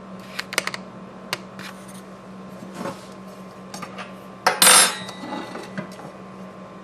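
Metal utensils clinking against a baking dish: a few light clicks, then a louder clatter with a brief ring about four and a half seconds in.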